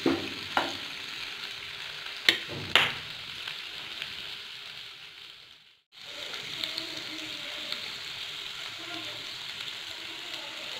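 Mutton liver pieces sizzling as they fry in oil in a non-stick pan, about half fried. A plastic spoon stirs them, knocking against the pan a few times in the first three seconds. The sound cuts out for a moment about halfway through, then steady sizzling resumes.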